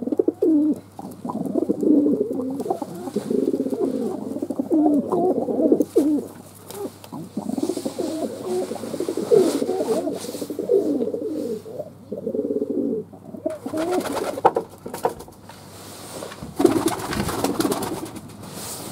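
Fantail pigeons cooing almost without pause, one low warbling coo after another. Near the end there are a couple of short rustling bursts.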